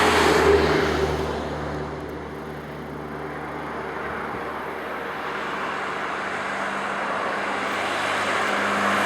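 A motor vehicle's engine running steadily under a broad rushing noise, which fades about two seconds in and swells again toward the end.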